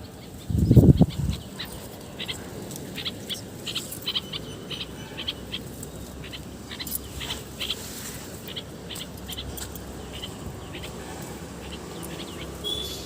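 Small birds chirping: many short, high chirps scattered irregularly, with a louder low sound about a second in.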